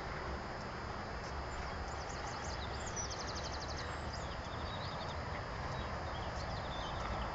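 Small birds chirping in the background, with a fast trill of repeated high notes about three seconds in and scattered chirps after, over a steady outdoor rustle and low rumble.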